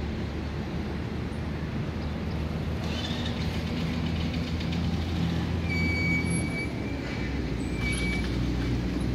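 Small hatchback car's petrol engine running steadily at low revs as the car creeps in reverse through a tight turn: a constant low hum.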